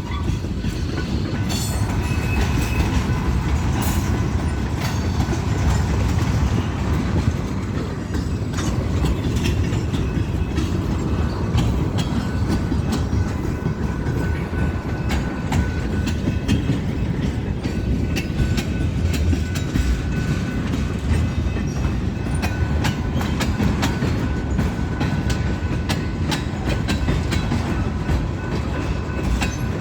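Freight cars of a long train rolling past: a steady rumble of wheels on rail, with many short clicks and clacks as the wheels cross rail joints. A faint thin tone rises out of it about twelve seconds in and holds.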